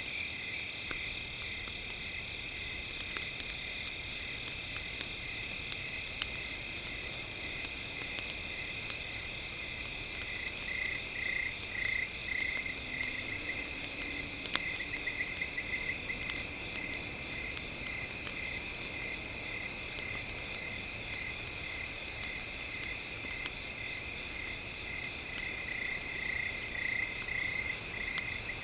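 Campfire crackling in small sharp pops, with one louder pop about halfway through, under a steady layer of high-pitched trilling and pulsing tones.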